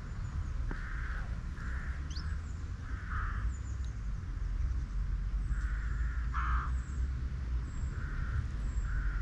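Birds calling: a run of short, harsh calls repeated about ten times at uneven intervals, with a few thin high chirps from smaller birds, over a steady low rumble.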